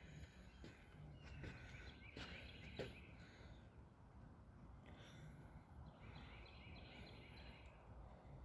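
Faint bird calls in short scattered bursts over a low background rumble, with one brief click about three seconds in.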